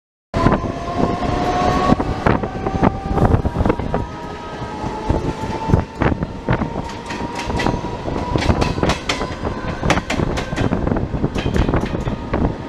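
Mumbai suburban EMU local trains running at speed side by side: wheels clattering irregularly over rail joints and points under a steady rumble, with a thin whine that rises slowly in pitch.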